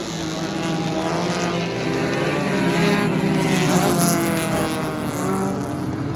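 Sports compact race cars' engines running at speed on the track, several overlapping engine notes rising and falling in pitch.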